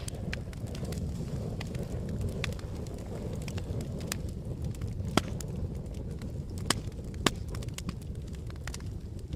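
Campfire burning: a steady low rumble of flames with frequent sharp crackles and pops from the burning wood, a few louder pops in the second half.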